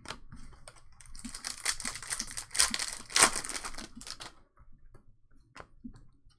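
Trading cards and their foil pack being handled: a dense, rapid crackling rustle from about one to four seconds in, with a few light clicks before and after.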